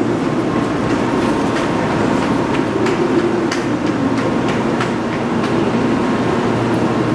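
Steady hum of a stationary N700 series Shinkansen standing at the platform, with a faint steady whine. About a second in, sharp footsteps start clicking on the platform floor as a passenger walks past, fading out after about five seconds.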